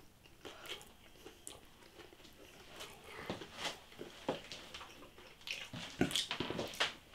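A person chewing and biting into breaded chicken chunks close to the microphone: faint, irregular mouth clicks and soft crunches, with a few louder bites about six seconds in.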